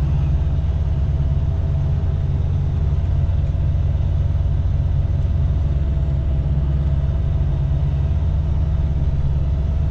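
Semi truck's diesel engine running steadily, a deep even hum.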